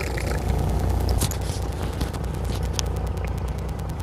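A fishing boat's engine running with a steady low rumble, with faint scraping and ticking noises over it.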